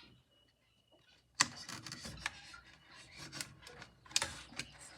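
Knife scraping and scoring through stiff, dry cover material on a cutting mat. After a near-silent start there is a sharp click about a second and a half in, then rasping scrapes with a few more clicks.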